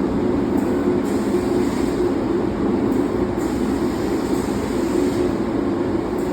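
Linc-Cut 3015 flat-sheet fiber laser cutter running as it cuts 11-gauge mild steel: a steady, loud machine drone with hiss, shifting slightly now and then.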